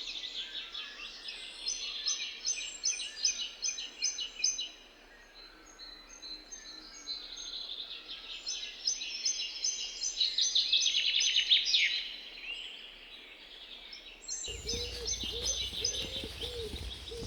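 Several songbirds singing together, with fast trills and quickly repeated high notes overlapping. In the last few seconds a lower call joins in, repeated several times a second.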